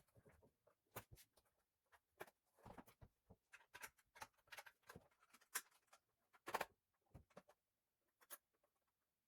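Faint, irregular clicks and taps, about a dozen of them, with the loudest about five and a half and six and a half seconds in.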